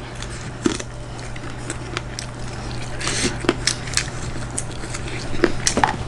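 Close-miked eating sounds: wet, squishy chewing and scattered small clicks of food and utensils, over a steady low electrical hum.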